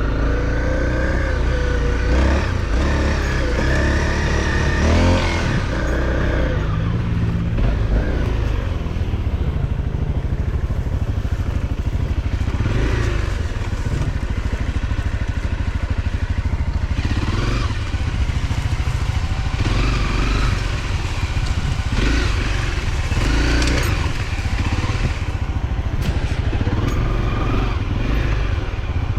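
Off-road motorcycle engine running throughout, its pitch rising and falling again and again with the throttle.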